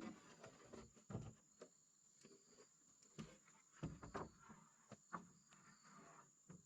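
Quiet scattered light knocks and taps, a few at a time with pauses between, over a steady high-pitched insect drone.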